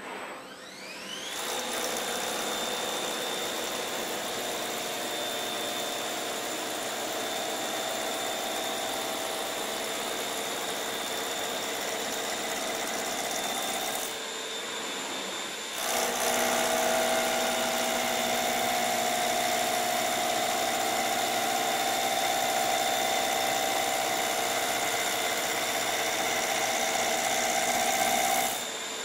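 CNC wood lathe running, with a motor whine that rises as it spins up, then holds steady. About halfway through the sound drops briefly, then comes back louder and steady until near the end.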